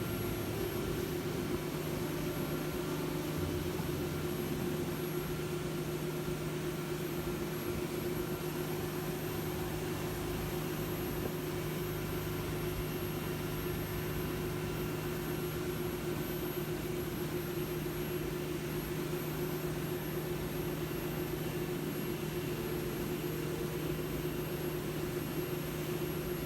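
Tour boat engine running steadily, heard from on board: an even drone with a constant low hum.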